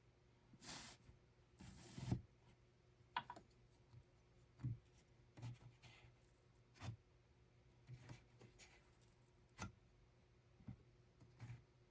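Faint handwork sounds from a hand loom being worked: two short rustles or brushes in the first two seconds, then soft knocks and clicks roughly once a second.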